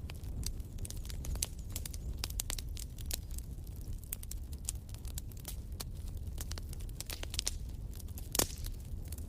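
Wood fire in a fireplace crackling, with irregular sharp snaps throughout and one louder pop near the end, over a low steady rumble.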